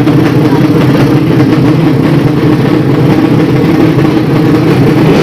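Drag-racing motorcycle engine idling loudly and steadily, holding an even pitch without revving.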